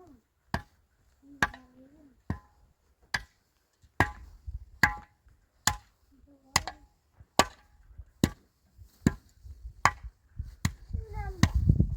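Steady chopping strokes of a hand tool, about one every 0.8 seconds, each a sharp crack, with short faint vocal sounds between some of them.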